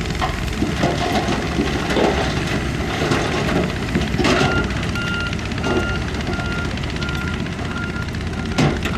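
Diesel engines of heavy earthmoving machines running under load, with a couple of sharp knocks of rock. From about four seconds in, a reversing alarm beeps steadily about twice a second.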